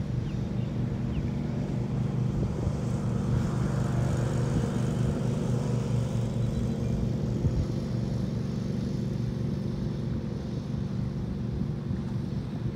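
A boat's engine running with a steady low drone, swelling in the middle as it passes.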